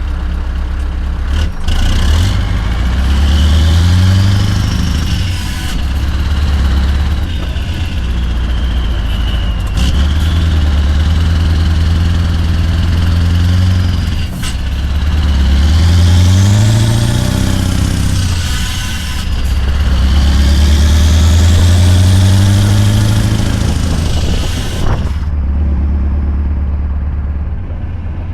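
Scania R580 V8 diesel truck engine with an 8-inch straight pipe, pulling through several gear changes: the engine note climbs, holds and breaks at each shift, with a high whistle rising and falling alongside the revs. About 25 s in the whistle stops and the engine settles to a lower steady run.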